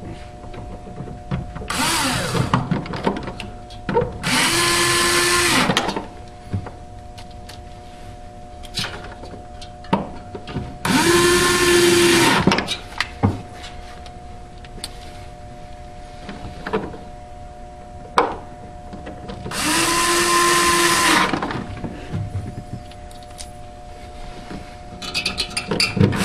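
Cordless drill-driver running screws back in, in separate runs of one to two seconds each: the motor spins up, holds and winds down with every screw. Light clicks and handling clatter come between the runs.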